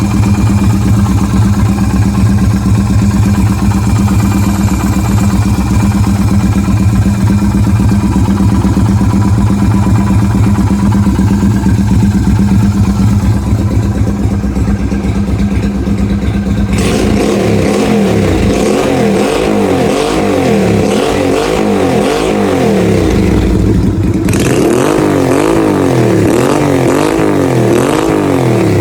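Yamaha Virago 250's V-twin engine running steadily. Past the halfway point the throttle is blipped again and again, so the revs rise and fall in quick repeated swells, with a short break before the revving picks up again near the end.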